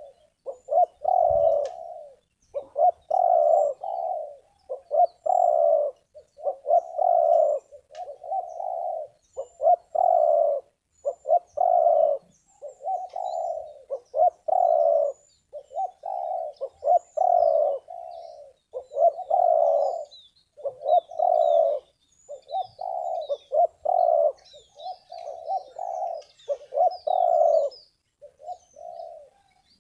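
Spotted dove (terkukur) cooing over and over, one short coo phrase after another with brief pauses. Small birds chirp faintly in the background, busier near the end.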